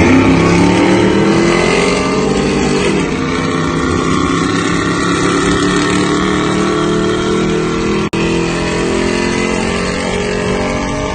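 Vehicle engines running hard in a street drag race, rising in pitch as they accelerate over the first few seconds and then holding at high revs.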